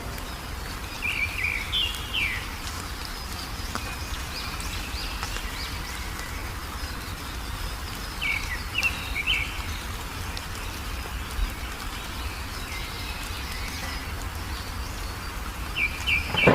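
Songbird chirping in short bouts of quick, high, falling notes, three bouts with pauses between, over a steady low background hiss.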